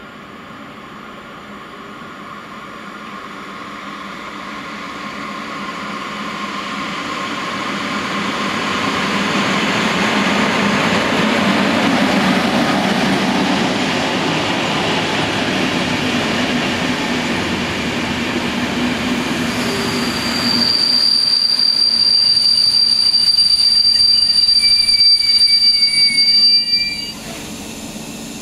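Passenger train pulling into a station: its rumble builds as it approaches along the platform. About two-thirds of the way in a high, steady brake squeal starts as it slows. The squeal cuts off abruptly near the end as the train comes to a stop.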